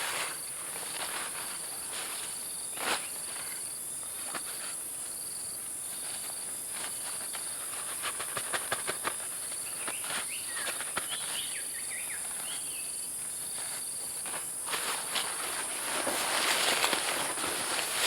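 A steady, high-pitched drone of forest insects, with a second fainter insect tone coming and going beneath it. Scattered sharp clicks and knocks run through it, a few short chirps come about ten seconds in, and a rushing hiss swells near the end.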